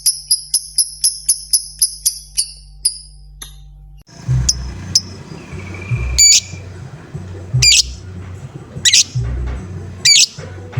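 Lovebird giving rapid high ticking chirps, about four a second, that slow and fade out after about three seconds. After a short break come single sharp high squeaks, spaced about a second or so apart, over a low thumping background.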